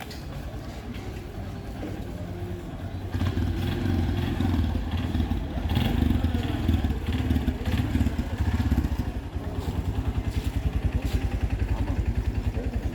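A small motor vehicle engine running close by in street traffic, getting louder about three seconds in, with a fast even pulsing in the second half.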